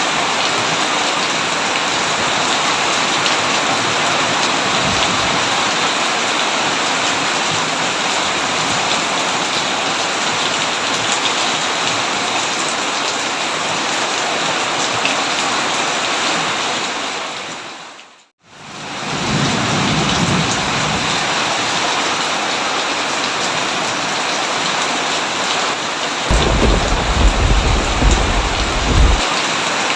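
Heavy rain pouring steadily, with thunder rumbling low twice: faintly just after the middle and more strongly near the end. About two-thirds of the way in, the rain fades out to silence for a moment and comes straight back.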